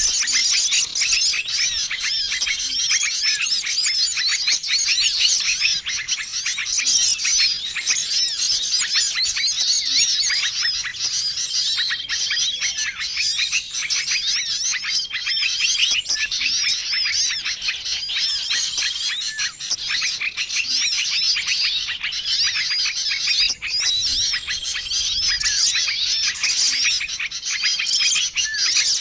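Bird-lure recording of many small songbirds chirping and chattering at once in a dense, high-pitched, continuous chorus. A short level whistle recurs every few seconds.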